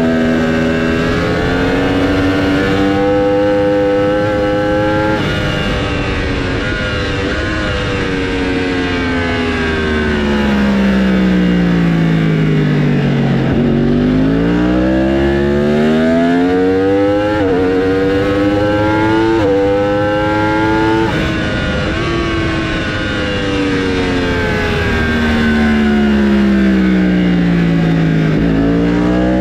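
Race motorcycle engines running on a circuit. The revs fall slowly as a bike slows, then climb again with three quick upshifts past the middle, and fall and rise once more near the end.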